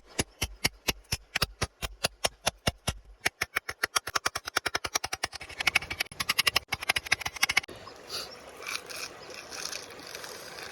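A rapid, regular series of sharp clicks, about five a second at first, speeding up to about ten a second after some three seconds, and stopping short about three seconds before the end; fainter irregular rustling follows.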